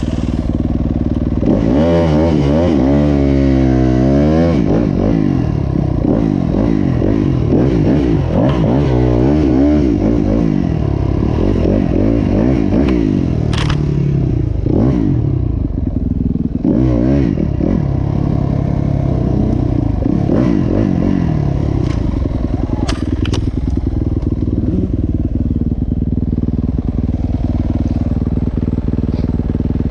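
Motocross dirt bike engine running hard, its pitch rising and falling repeatedly as it revs up and eases off, with a couple of sharp knocks partway through.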